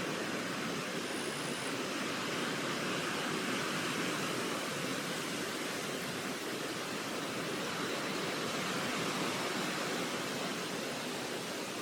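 Steady, even rushing noise with no separate calls, clicks or other events.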